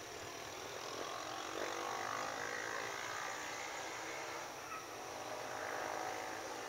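Engine of a passing vehicle, a droning hum that rises about a second and a half in, holds, and fades near the end, over a steady hiss.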